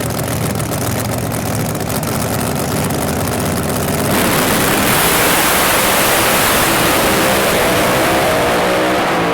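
Drag racing cars with big, rough-running engines rumbling at the start line, then launching about four seconds in: a sudden, much louder full-throttle run down the strip with the engine note climbing.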